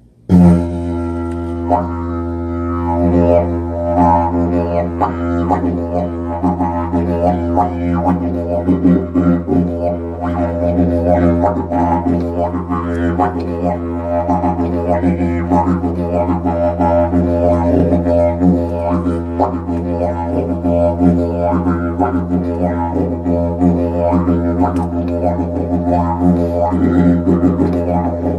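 Didgeridoo played as one unbroken low drone that starts abruptly, with overtones that shift and wobble above it as the player shapes his mouth and voice.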